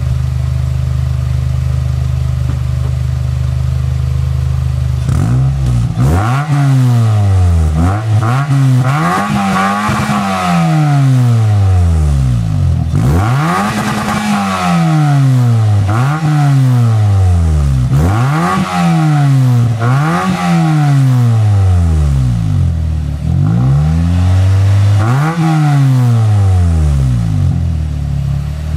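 Exhaust of a 2002 Chevy Prizm's 1.8-litre four-cylinder through a Thrush Turbo muffler: idling steadily, then revved up and let fall back about ten times in quick succession, and returning to idle near the end.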